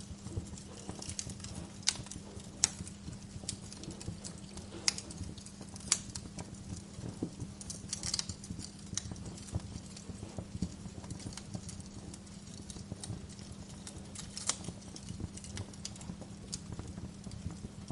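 Wood fire crackling in a fireplace, with irregular snaps and a few louder pops over a steady low hum.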